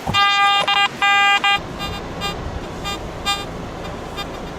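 Garrett AT Max metal detector sounding a run of loud beeping target tones in the first second and a half, signalling metal under the coil, then a few fainter beeps later over a steady hiss.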